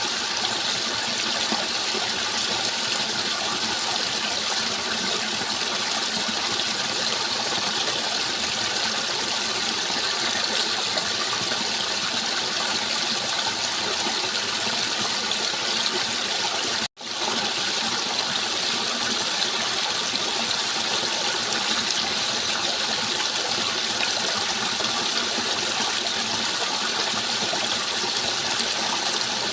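Steady rushing of flowing water, an even wash of noise, which cuts out for an instant a little past halfway and comes straight back.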